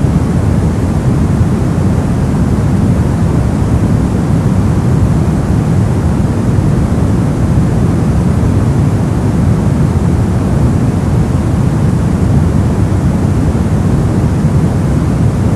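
Brown noise: a steady, deep, rumbling hiss with most of its energy in the low end and little treble, unchanging throughout.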